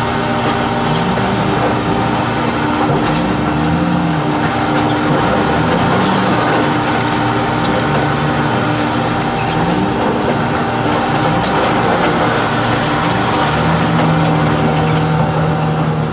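Diesel engine of heavy car-handling equipment running under hydraulic load, its pitch rising and falling again and again as the machine works, then holding at a higher steady pitch near the end. A steady high whine runs underneath.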